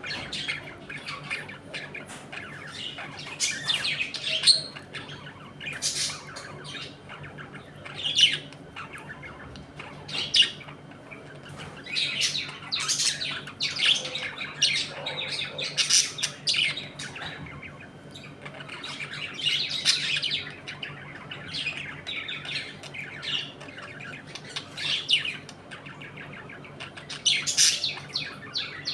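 A flock of budgerigars chattering, chirping and squawking continuously, many short overlapping calls with louder sharp squawks now and then.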